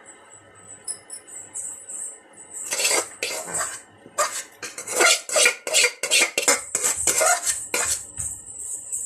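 Metal pots, plate and utensils clattering and clinking, a quick run of knocks and scrapes lasting about five seconds, starting about three seconds in, as cookware is handled while setting up the idli steamer.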